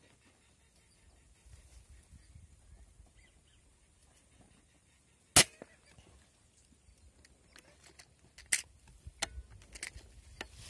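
A single air-rifle shot, a sharp crack about halfway through, followed by a smaller sharp knock about three seconds later and a few faint clicks near the end.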